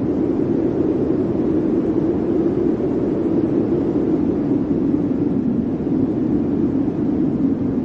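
Blizzard wind blowing steadily: a dense, low rushing noise with no breaks or separate gusts.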